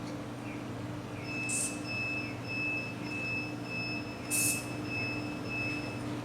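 A steady high-pitched whine starts about a second in and stops near the end, with two brief hisses along the way, over a low steady hum.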